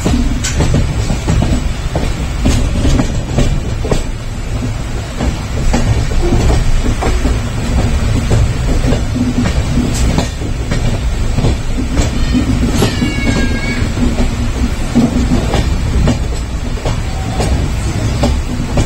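Passenger train running, heard from on board: a steady low rumble with the repeated clack of wheels over rail joints. About two-thirds of the way through there is a brief falling squeal.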